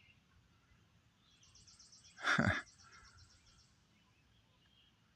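Birds calling outdoors, with a rapid high trill lasting about two seconds. Partway through the trill there is a brief, loud noise.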